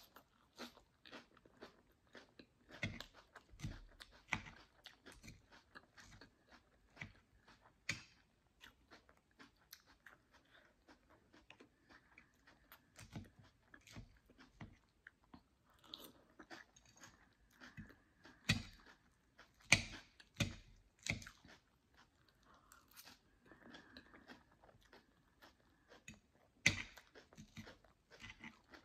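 Close-miked chewing and crunching of a mouthful of jerk chicken with rice and beans, irregular and steady through, with sharp clicks now and then; the loudest come about two-thirds of the way in and near the end.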